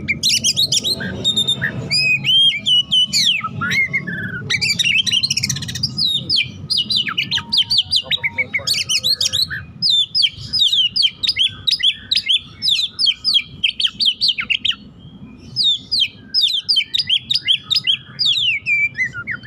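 Male Oriental magpie-robin (kacer) singing a fast, densely packed run of sharp falling whistled notes, strung together with mimicked phrases (its 'isian'), in the excited delivery of a 'hot-type' bird. The song breaks off briefly about fifteen seconds in, then resumes.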